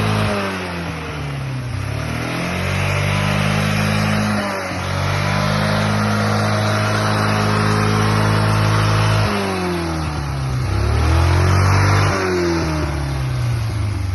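VAZ-2107 Zhiguli four-cylinder engine revved through its exhaust: revs held high for a few seconds at a time, dropping back about half a second in and again about nine seconds in, with quick blips back up in between.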